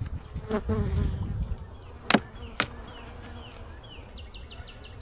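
Honeybees buzzing around an open hive, with a low rumble in the first second and a half. Two sharp clicks come about two seconds in and half a second later, and a rapid series of high chirps starts near the end.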